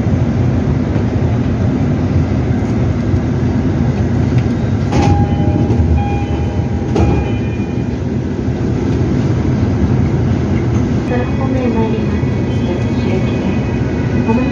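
Electric commuter train running at a station platform, a steady low rumble throughout. A short steady tone sounds about five seconds in, and several ringing high tones come near the end.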